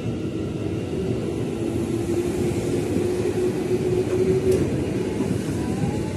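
KRL electric commuter train passing close at speed: a steady rumble of wheels on the rails, with a steady hum through the middle few seconds.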